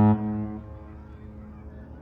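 Mein Schiff 3's ship horn: the end of a deep, steady blast that stops just after the start and echoes away over about half a second, leaving faint background noise. A horn blast sounded as the cruise ship leaves port.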